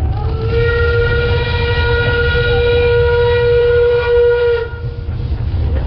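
A narrow-gauge forest railway locomotive whistle blown in one long, steady blast of about four seconds over a low rumble.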